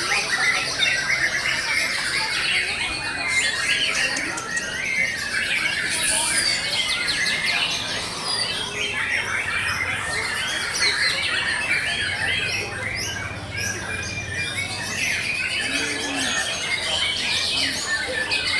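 Many white-rumped shamas (murai batu) singing at once, a dense, unbroken tangle of overlapping whistles, chirps, trills and harsh notes from birds competing in a songbird contest.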